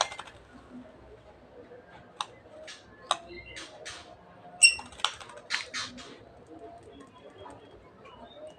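A murai songbird bathing, splashing and fluttering its wings in water in a dozen or so short, irregular bursts, with one short chirp about four and a half seconds in.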